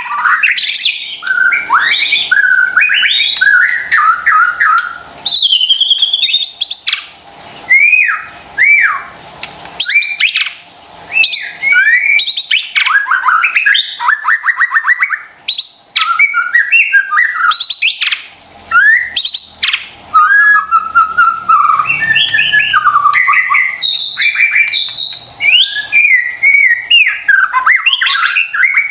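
White-rumped shama (murai batu) singing a continuous, varied song of loud whistled phrases that glide up and down, mixed with quick rattling chatter notes and only brief pauses. It is a full, excited shama song of the kind played to caged shamas to provoke them into answering.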